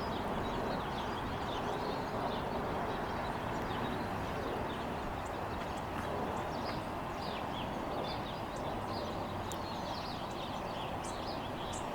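Steady outdoor background noise with faint, short bird chirps scattered through it, coming more often near the end.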